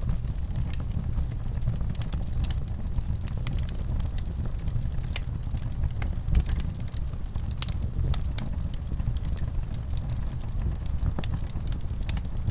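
Fire crackling, with frequent sharp pops and snaps at irregular intervals over a steady low rumble.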